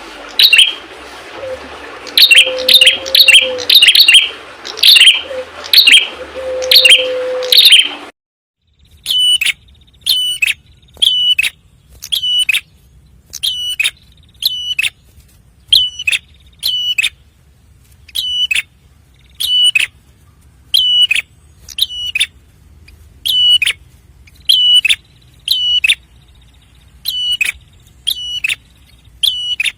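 Prenjak kepala merah (a prinia) calling: repeated sharp, high chirps, first in quick clusters over a low hum. After a brief gap about eight seconds in, a cleaner run of single sharp calls follows, roughly one a second, each dropping quickly in pitch.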